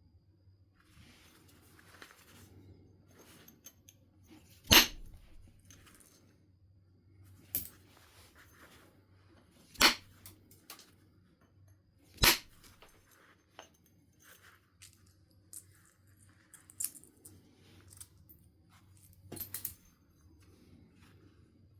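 Flint being knapped by percussion: four sharp strikes of a billet on the stone, each knocking off a flake, with softer taps and a cluster of light hits near the end. Faint scraping and handling noise of the stone runs between the strikes.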